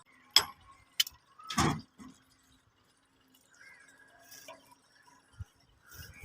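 Three sharp clinks in the first two seconds, the last a little longer, then only faint scattered sounds.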